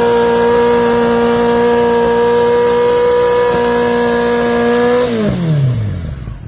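A vehicle engine held at high revs with a steady note, then let off about five seconds in, its pitch falling fast as the revs drop away.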